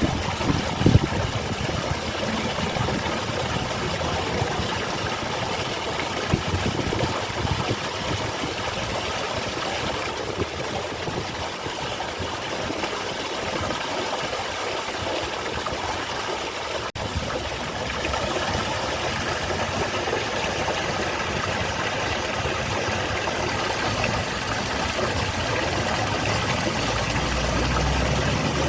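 Water from a small garden waterfall rushing and splashing steadily. A low rumble builds near the end.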